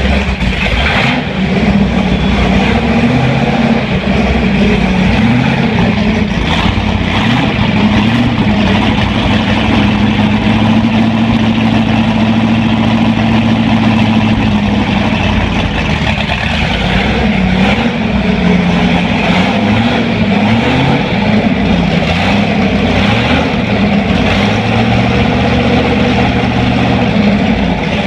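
Muscle car V8 engine running, held at a steady speed for a while, then revved up and down several times in the second half.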